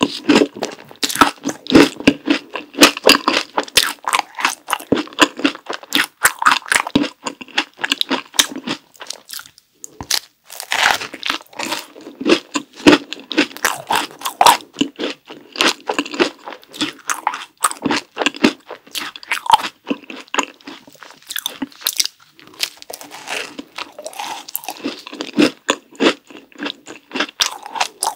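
Close-miked chewing and crunching of a chocolate ice cream sandwich with a cream filling: dense, irregular crisp crunches, with a brief pause about ten seconds in.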